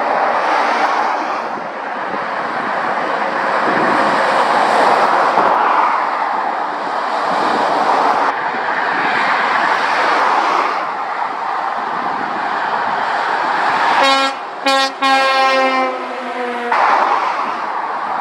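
Heavy motorway traffic: lorries passing one after another, a steady rush of tyre and engine noise that swells and fades with each pass. Near the end a lorry's air horn sounds, two short toots and then a longer blast of about a second and a half, dropping slightly in pitch as it goes by.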